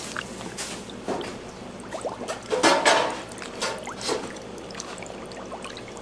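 Liquid splashing and pouring in irregular bursts, loudest about halfway through.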